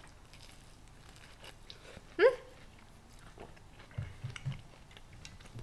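Soft chewing and mouth sounds of a person eating spicy instant noodles close to the microphone, with a short rising hum about two seconds in and a few soft low knocks around four seconds in.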